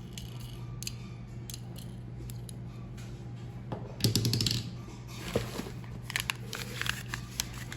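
Small clicks and rustling from handling loose die-cast Hot Wheels cars and their packing, with a short louder burst about four seconds in, over a steady low hum.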